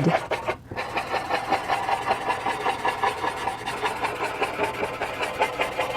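Blending stump rubbing charcoal into charcoal paper in quick, even back-and-forth strokes, smoothing away the line between two grades of charcoal. The rubbing starts just under a second in and keeps an even rhythm.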